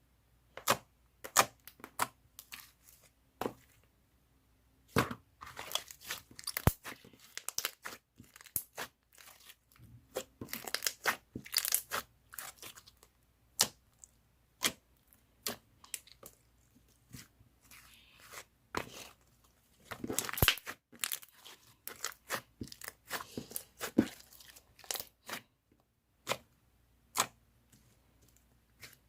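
Slime being squeezed, stretched and poked by hand: irregular sharp clicks, pops and crackles with short sticky tearing sounds, in clusters broken by a couple of brief pauses.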